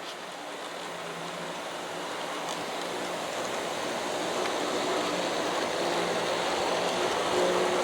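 G-scale model coal train, Aristo-Craft diesel locomotives hauling a long string of hopper cars, rolling along the track: a steady rushing rumble of wheels on rail with a faint motor hum, growing louder as the train approaches.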